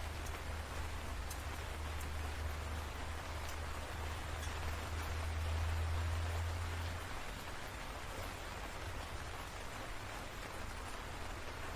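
Steady rain with scattered sharp drop ticks, over a low rumble of thunder that swells about halfway through and eases off a couple of seconds later.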